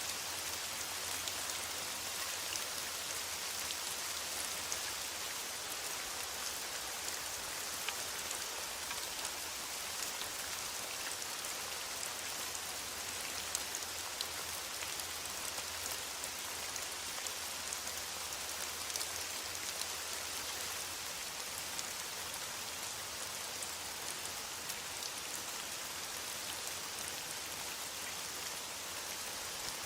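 Steady rain falling on foliage, an even hiss with many small drop ticks.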